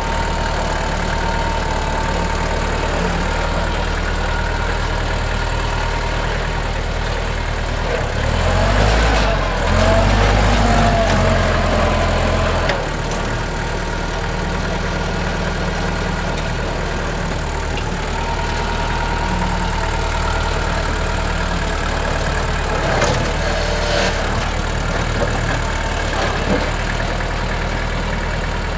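Compact diesel tractor engine running steadily. From about eight seconds in, for some five seconds, it grows louder and rises in pitch as it works harder, then drops back suddenly to a steady run.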